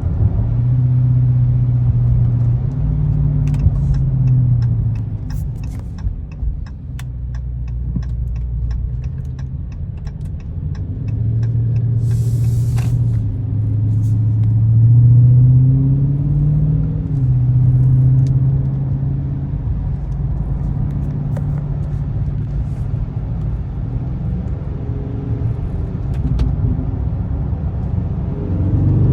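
A 2022 Dodge Charger Scat Pack's 6.4-litre HEMI V8 on its stock exhaust, mid mufflers still fitted, humming low while driving, its pitch rising and falling several times with the throttle. A run of light, evenly spaced ticks comes in for several seconds, and a short hiss sounds about halfway through.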